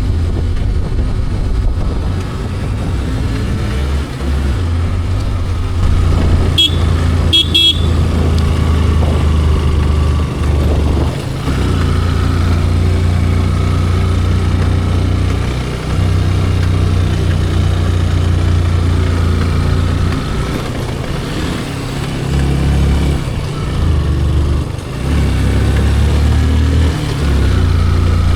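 Riding on a motorcycle on the road: a steady heavy rumble of wind and engine, with a few short horn toots about seven seconds in.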